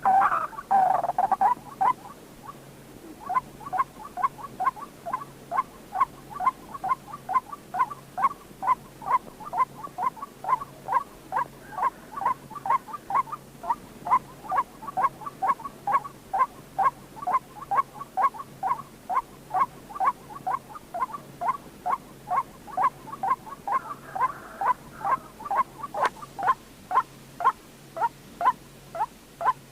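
White-breasted waterhen (chim quốc) calling: a long, even series of short notes, about three a second, louder and fuller in the first two seconds. It is the call trappers play as a lure for waterhens.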